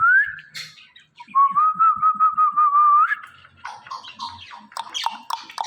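Indian ringneck parrot whistling: a short rising whistle, then a long, level, warbling whistle of about two seconds, followed by softer chattering.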